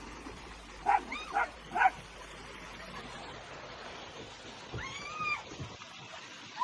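A pet animal calling: three short, high yelps close together about a second in, then one longer call that rises and falls near five seconds in.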